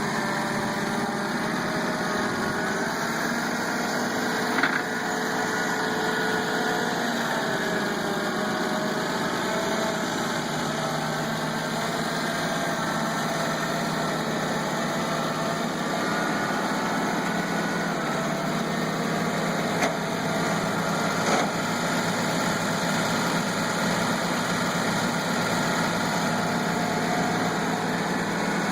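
Allis-Chalmers 190 tractor's gasoline six-cylinder engine running steadily at a low, even speed, with a few brief clicks.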